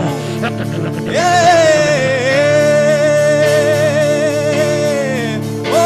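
Gospel worship music: a voice holds one long sung note, wavering slightly, over a steady sustained keyboard drone. A new note begins near the end.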